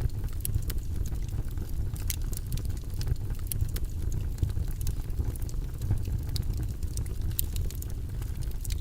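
Steady white-noise track, weighted to the low end, with scattered faint clicks through it.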